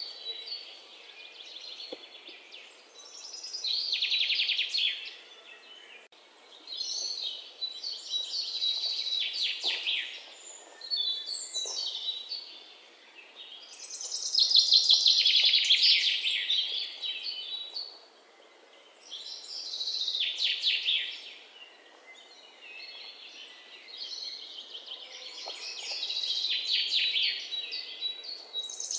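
Songbirds singing: bursts of fast trilled notes, each lasting a second or two and coming again every few seconds.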